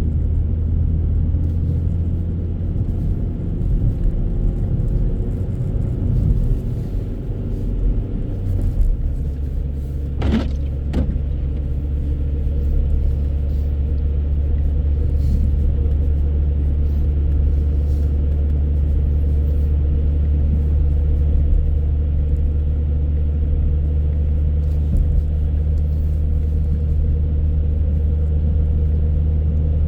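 Car cabin noise while driving: a steady low rumble of engine and tyres on the road, with one sharp knock about ten seconds in.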